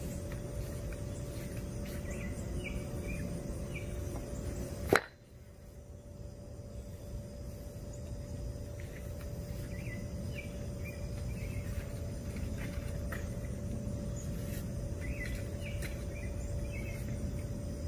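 Outdoor background noise: a steady low rumble with a faint steady hum under it, and a small bird chirping in short runs three times. A sharp click comes about five seconds in; the noise drops right after it and slowly builds back.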